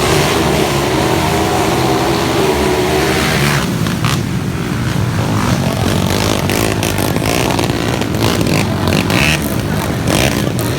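Motocross dirt bikes racing, their engines revving and changing pitch.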